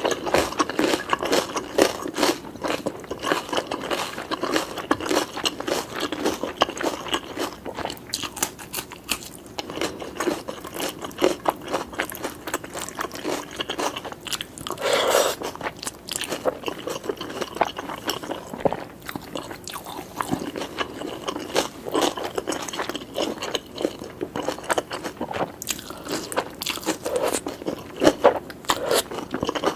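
Close-miked chewing of food, a steady stream of small crunches and wet mouth clicks, with a louder, fuller mouth sound about halfway through.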